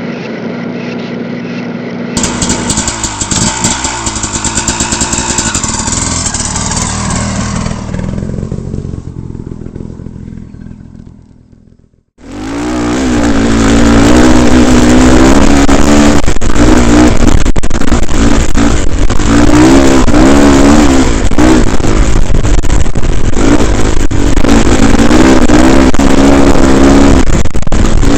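Dirt bike engine heard from a helmet camera, revving up and down with wind noise on the microphone. It comes in loud about twelve seconds in, after an earlier steady sound fades away to a brief silence.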